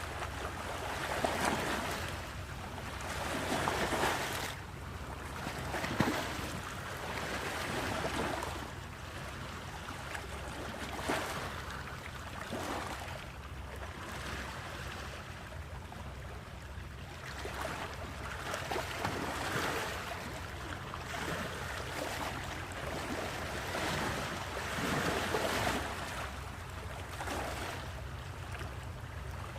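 Sea waves washing in and breaking, the surf swelling and fading every few seconds, with a steady low rumble of wind on the microphone underneath.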